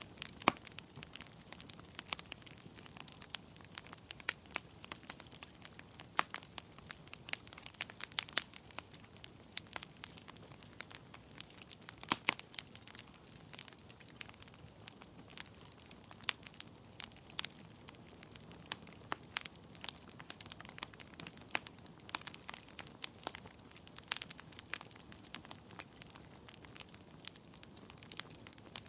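Wood fire in a fireplace crackling, with frequent irregular sharp pops and snaps of burning logs over a low steady hiss.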